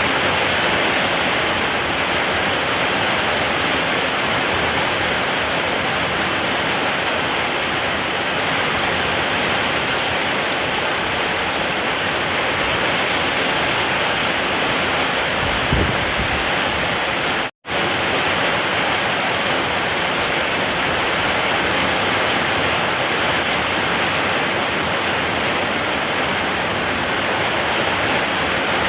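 Steady heavy rainfall, a dense even hiss. A little past halfway there is a brief low thump, and shortly after it the sound cuts out for an instant and comes straight back.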